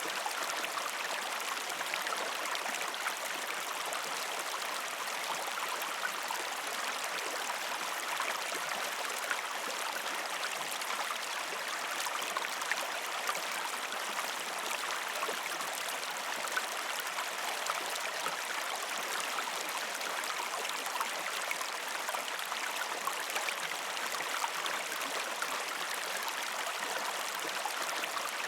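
Shallow river stream flowing over rocks: a steady rush of water, dense with small splashes and trickles, unchanging throughout.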